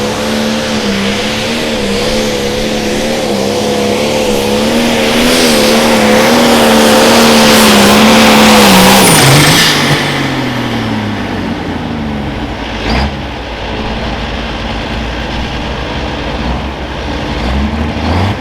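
Turbocharged diesel engine of a 4.1 Limited Pro Stock pulling tractor held at full throttle under load, its pitch wavering slightly as it grows louder. About nine seconds in it throttles back and the engine note falls away to a lower, quieter run.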